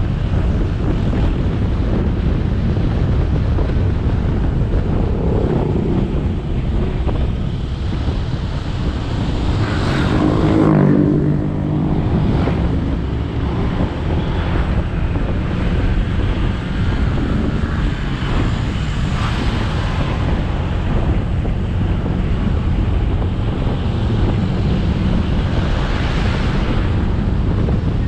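Motorcycle riding along a road: steady wind rush over the action camera's microphone together with the bike's engine and tyre noise. About ten seconds in, a louder engine note briefly rises and shifts in pitch.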